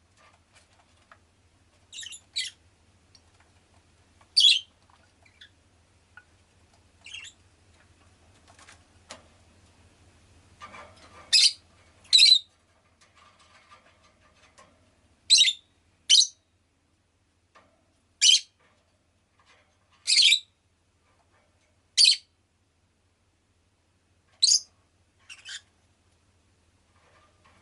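Rosy-faced lovebird giving short, sharp, high-pitched chirps, about a dozen of them, a second or two apart and several in quick pairs.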